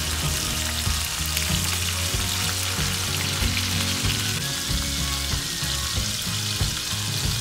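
Marinated chicken pieces frying in hot oil in a pan, with a steady sizzle.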